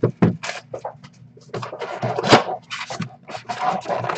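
A trading-card box and its packs being handled and opened: irregular scraping, rubbing and rustling of cardboard and wrapper.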